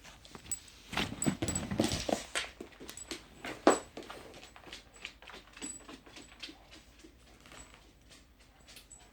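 A dog playing with a toy: a run of clicks, knocks and rattles, busiest and loudest in the first few seconds, then thinning out to scattered faint clicks.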